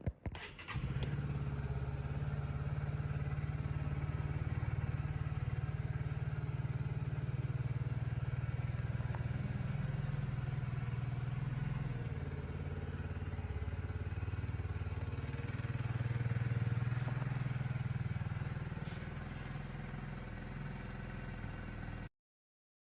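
Honda CB125R's 125cc single-cylinder engine starting up, then idling steadily, a little higher for a couple of seconds about two-thirds of the way through. The sound cuts off suddenly near the end.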